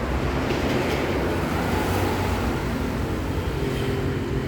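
A motor vehicle's engine rumbling steadily close by, with a low hum and a steady higher drone in the second half.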